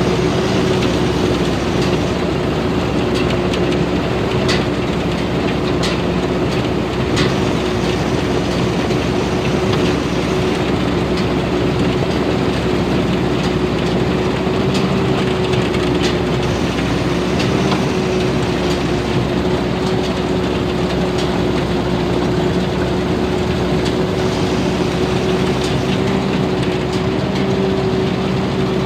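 Tamco S9000 rice combine harvester with its Hino J08C diesel engine running steadily while harvesting, with a constant whine over the engine and a few light clicks and rattles.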